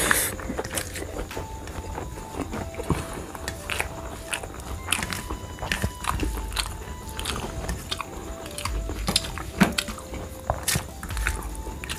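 Close-up chewing of a mouthful of rice and cabbage curry, with many short, wet mouth clicks and smacks scattered irregularly throughout.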